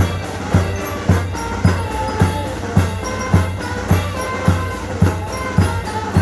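Band music with a bass drum beating steadily, a little under two beats a second, under held melodic notes.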